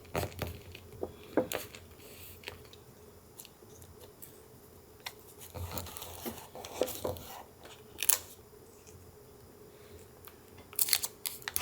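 Paper crafting sounds: scattered light clicks and taps with a stretch of paper rustling about halfway through and a quick cluster of clicks near the end, as paper and supplies are handled, cut and laid down for a junk-journal collage.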